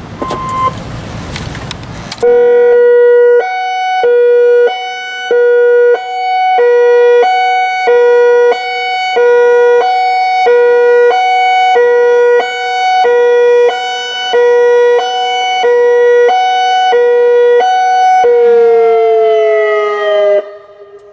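Federal Signal Modulator 6024B electronic outdoor warning siren sounding its high-low tone under test: two pitches alternating about twice a second, very loud. Near the end the tone slides down in pitch and stops. It is preceded by about two seconds of hiss.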